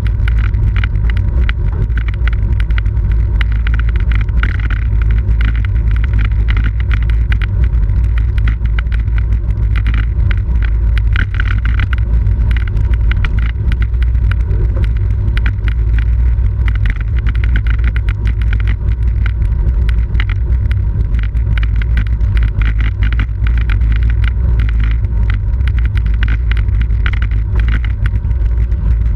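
Wind buffeting the microphone of a camera riding along in a bicycle road race, a steady low rumble, with tyre and road hiss.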